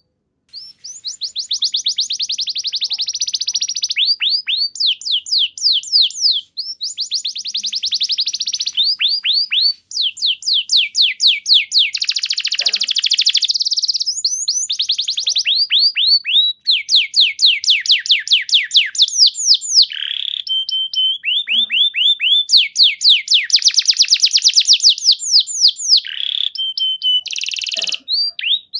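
Domestic canary singing, a run of fast trills built from rapid repeated notes that change speed and pitch phrase by phrase, broken by a few brief pauses and an occasional held steady note.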